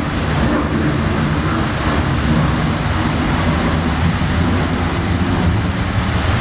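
Loud, steady rushing noise, heaviest in the low end, with no clear events in it.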